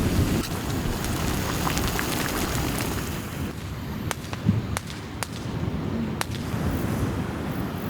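Wood fire crackling, with a few sharp pops about halfway through, over a steady rumbling hiss of rain and wind.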